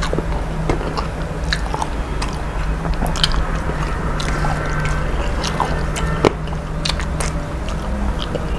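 A person chewing and biting food, with many small scattered clicks and smacks, over a steady low hum.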